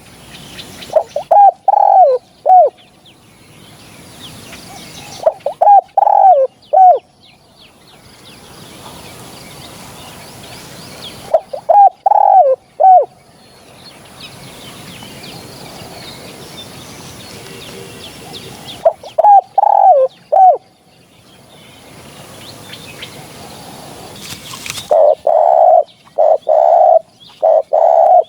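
Spotted dove cooing, a male's territorial song used as a hunting lure. Short phrases of a few coos come every five or six seconds, and a longer run of five loud coos follows near the end.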